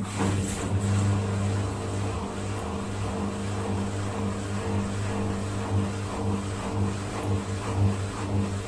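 Bosch WAK282E25 washing machine running with a steady electric hum, switched on just before. The machine has a drive fault (error E21): its motor does not spin the drum.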